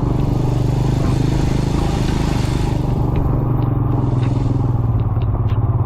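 Royal Enfield Himalayan motorcycle's single-cylinder engine running steadily under way on a rough trail, with a hiss in the first half and scattered sharp clicks and rattles later on.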